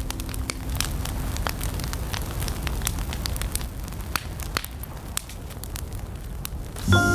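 Wood fire crackling in a fireplace: irregular sharp snaps and pops over a low rumble. Smooth jazz music comes back in near the end.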